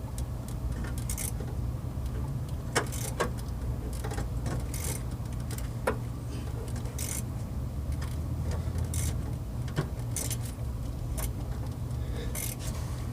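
Scattered light metallic clicks and clinks of hand tools working on the engine bay hardware, over a steady low hum.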